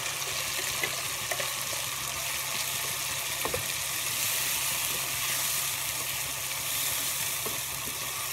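Onions and freshly added tomato purée sizzling in hot ghee in a non-stick kadhai, stirred with a wooden spatula. A steady frying hiss, with a few light knocks of the stirring.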